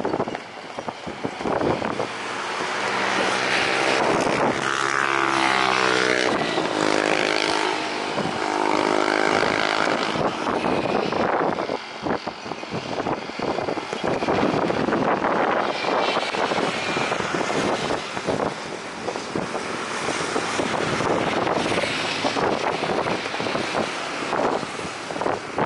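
Jet airliner engines passing low overhead, swelling from about two seconds in, with a tone sweeping down in pitch as it goes by. Gusts of wind buffet the microphone.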